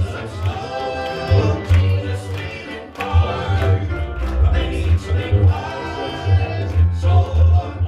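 Southern gospel quartet and band performing, with a pulsing bass line under voices or melody instruments.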